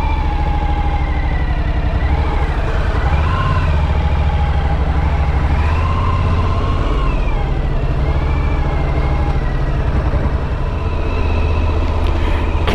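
Motorcycle engine running on the road, its note rising and falling gently with the throttle over a heavy, steady low rumble.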